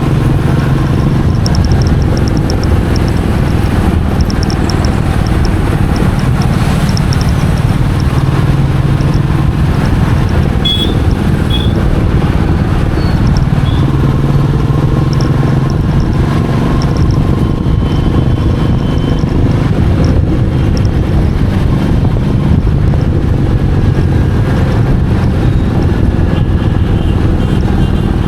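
Royal Enfield Meteor 350's 349 cc single-cylinder engine running steadily while the motorcycle is ridden, with road noise.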